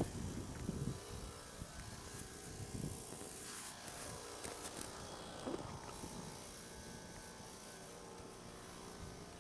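Outdoor air-conditioning condenser units running: a steady fan whoosh and hum that slowly grows fainter, with a few light handling knocks.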